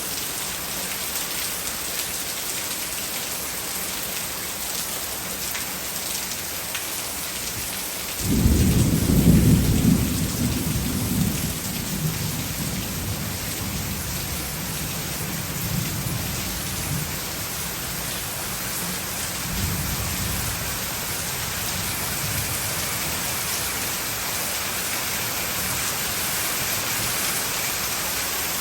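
Heavy rain pouring steadily, with a sudden loud thunderclap about eight seconds in that rumbles away over a few seconds, and a fainter roll of thunder later on.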